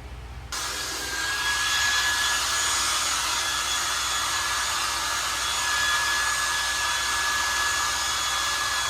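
Hand-held hair dryer switched on about half a second in and running steadily: a rush of blown air with a thin, steady whine over it.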